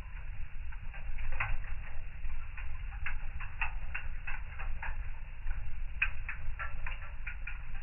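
Fire in a fireplace crackling: irregular sharp pops and snaps, several a second at uneven spacing, over a low steady rumble.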